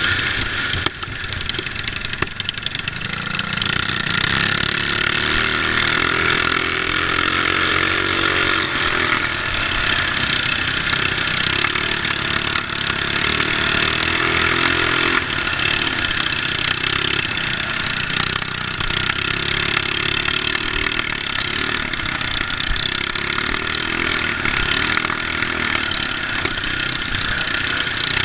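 Mini bike engine running, its pitch rising and falling as the throttle is worked.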